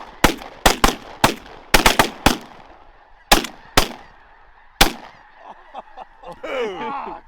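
A volley of about a dozen shotgun shots from several waterfowl hunters, fired in quick ragged succession over the first five seconds, over the constant honking of a large flock of snow geese.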